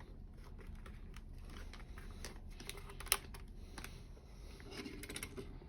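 Light clicks and taps of small hard objects being handled and set down on a tabletop, with one sharper tap about three seconds in.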